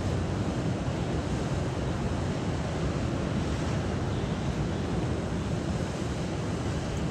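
Steady rushing water with no distinct swells or splashes, under a low rumble of wind on the microphone.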